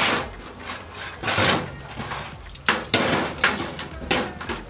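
Irregular knocks and clatters, about six in under five seconds, some with a short ring after them.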